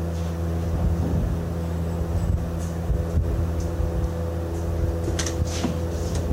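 An engine running steadily at idle with a low, even hum, with scattered small knocks of work going on and a few short sharp sounds about five seconds in.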